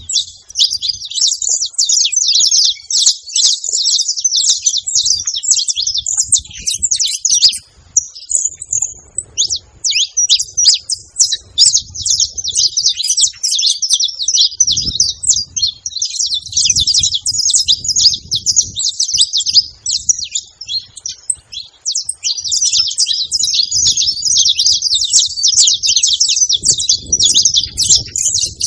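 Saffron finch singing a long, fast run of high chirps and trills, with a short break about eight seconds in.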